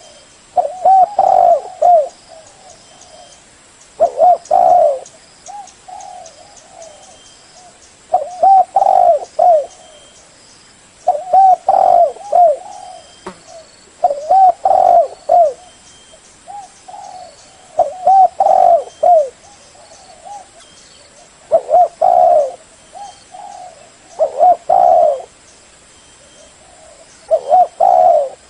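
Spotted dove cooing: a phrase of several low, rounded coo notes, repeated about every three to four seconds, with softer coos between the phrases.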